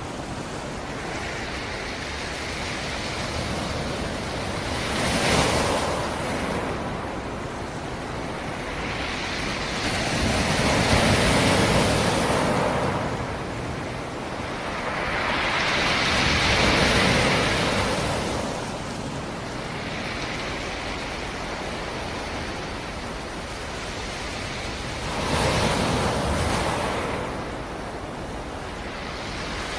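Black Sea surf breaking on a rocky shore: waves roll in and break every five or six seconds, with a steady wash of water between them.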